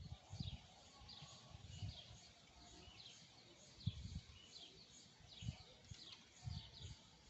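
A bird chirping over and over, short falling notes about once a second, over low irregular rumbles of wind buffeting the microphone.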